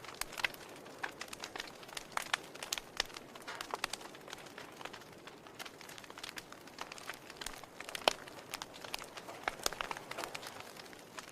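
Burning firewood crackling, with irregular sharp snaps and pops over a low hiss; the loudest pop comes about eight seconds in.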